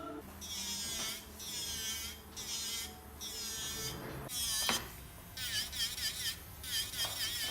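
High-pitched whine of an electric nail drill (e-file) in short runs with brief pauses, its pitch wavering up and down, with a sharp click about halfway through.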